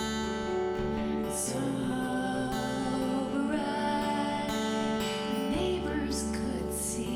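A song on strummed acoustic guitar, with a voice singing over it.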